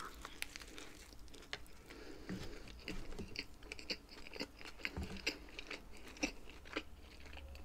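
Close-miked chewing of a mouthful of a McDonald's vegetarian burger: fairly faint, irregular wet mouth clicks and small crunches.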